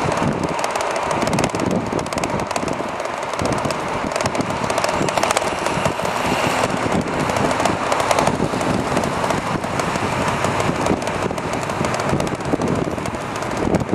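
Wind buffeting a moving microphone on a riding e-bike, mixed with tyre and road noise: a loud, steady rush full of fast crackling.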